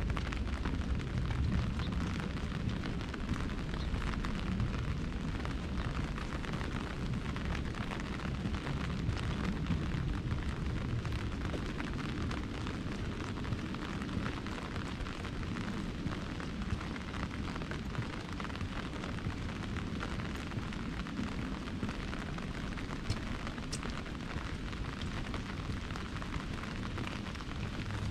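Rain falling on an umbrella overhead: a dense, steady patter of many small drop ticks over a low rumble.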